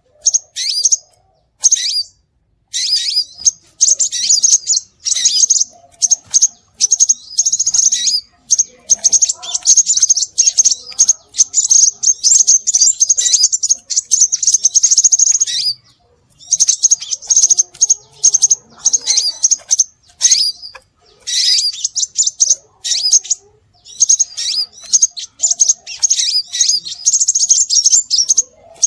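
Scarlet minivet (sepah raja) calling: rapid strings of thin, high-pitched chirps in bursts lasting several seconds, separated by short breaks. This is a bird-luring call recording.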